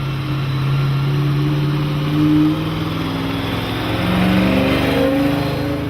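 Maserati Ghibli SS's 4.9-litre V8 engine running, its pitch rising and falling gently with the revs and swelling louder about two seconds in and again around four seconds.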